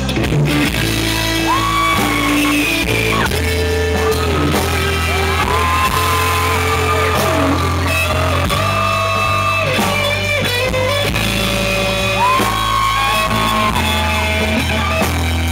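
Live rock band playing an instrumental break: a lead guitar line of notes that slide up into long held pitches and fall away, over a steady bass.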